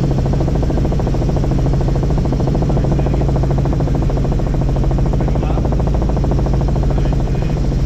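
Helicopter in flight: a steady, loud drone of rotor and engine with a low hum and a rapid, even pulsing.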